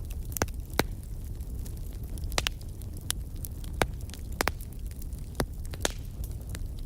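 Wood campfire burning, a steady low rumble with about ten sharp, irregular crackles and pops from the burning wood.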